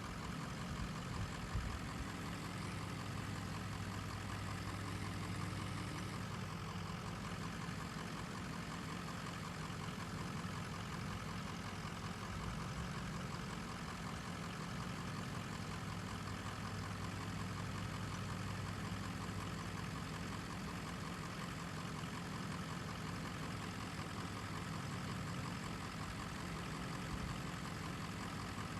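Diesel engine of heavy earthmoving machinery, an excavator or dump truck, running steadily at low revs.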